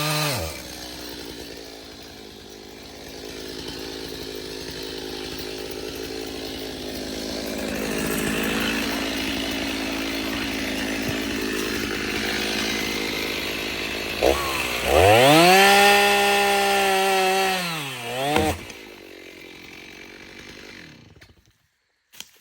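Two-stroke chainsaw running, with a long full-throttle rev for about four seconds in the last third. It then drops back to idle and cuts off shortly before the end.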